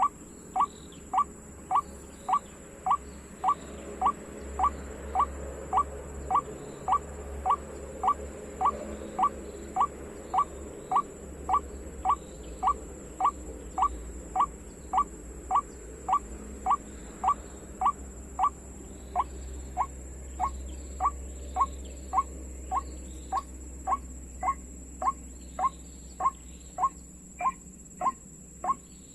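White-breasted waterhen call, a short falling note repeated very evenly about twice a second, played through a speaker as a trapping lure. A faint steady high-pitched whine runs underneath.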